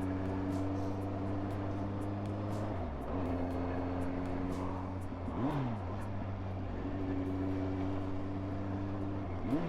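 Kawasaki motorcycle engine running steadily at road speed. The revs drop briefly about three seconds in, then twice rise and fall quickly, about five and a half seconds in and near the end.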